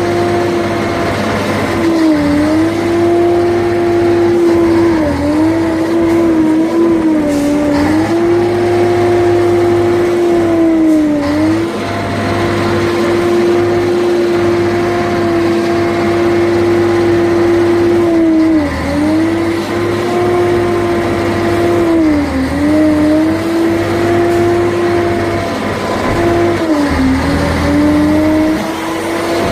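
Scania 113 truck's diesel engine running under steady revs, a high steady tone whose pitch dips briefly and comes back up about seven times.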